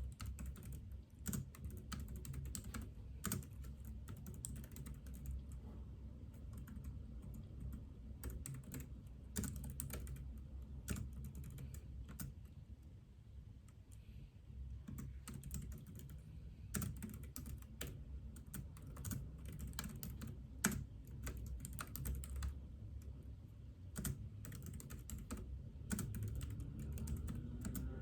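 Computer keyboard being typed on in irregular runs of keystrokes with short pauses, over a steady low hum.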